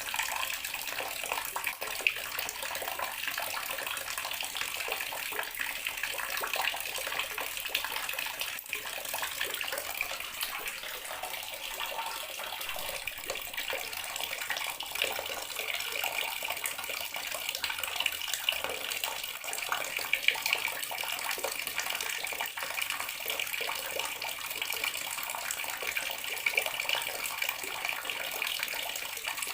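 Water running steadily from a bathroom sink tap and splashing into the basin, a constant splashing flow with small spatters.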